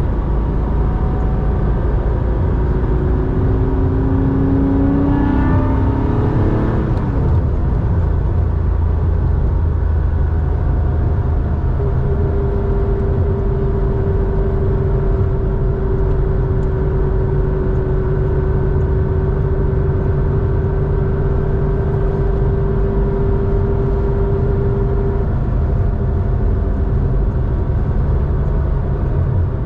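Porsche 911 3.4-litre air-cooled flat-six, breathing through a Scart 2-in-1-out muffler, under way. The revs climb about five seconds in, then the engine settles into a steady drone at constant revs for much of the rest.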